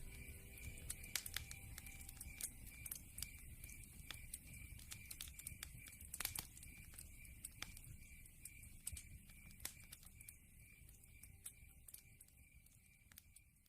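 Wood fire crackling in a fireplace: scattered sharp pops and snaps over a low rumble, fading out near the end.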